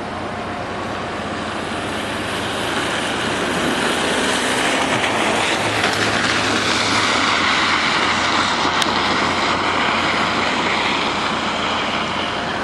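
A broad, steady engine roar that swells about three seconds in and holds, as of a distant vehicle or aircraft passing.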